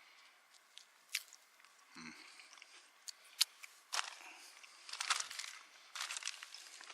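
Someone chewing and crunching a sweet ration biscuit, with scattered sharp crackles that come thicker from about four seconds in.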